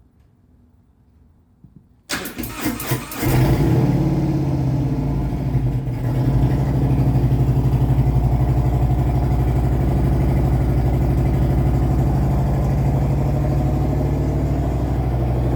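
Harley-Davidson V-twin engine turned over by the electric starter for about a second, catching about three seconds in and then idling steadily: a cold start in winter.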